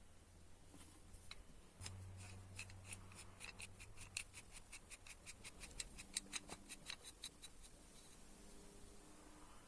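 Light metallic clicking from a restored adjustable wrench being worked by hand, about five clicks a second for around five seconds, starting about two seconds in.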